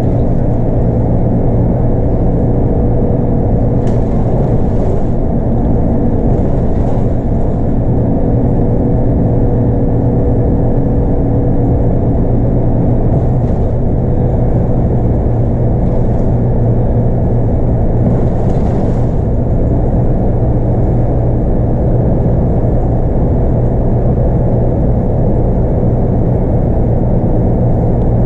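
Scania DC9 8.9-litre five-cylinder diesel of a Scania K230UB bus running steadily at an even pitch, with road noise, heard on board. A few brief faint hisses come and go over the engine.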